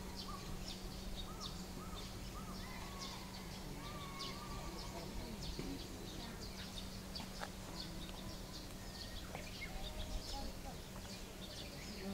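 Birds chirping: a run of short calls rising and falling in pitch through the first five seconds or so, and quick high chirps throughout, over a steady low hum.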